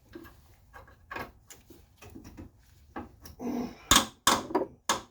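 Hand tools clicking, scraping and knocking against metal car parts during suspension work, with a few loud sharp knocks near the end.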